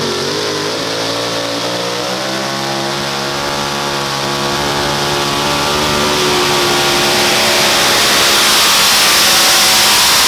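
Pulling tractor's engine running flat out under heavy load down the track. Its note climbs slightly, then holds steady while a rushing noise builds and grows louder toward the end.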